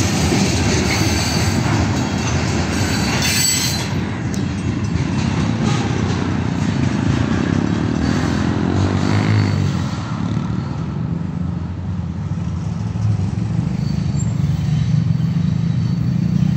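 Freight train of covered hopper and tank cars rolling past, a loud rumble and clatter of wheels on rail. It fades about ten seconds in as the last cars go by, leaving a steady low hum of road traffic.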